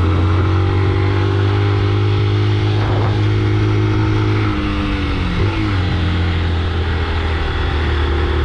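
Motorcycle engine running under way, with wind noise; about five seconds in the engine note drops as the revs fall, then it settles again.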